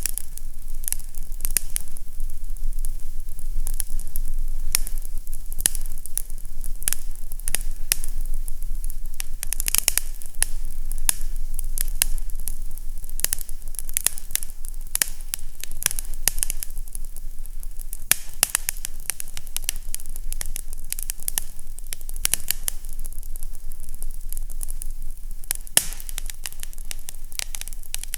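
Fireplace crackling steadily, with a dense run of sharp pops and snaps over a low, steady rumble.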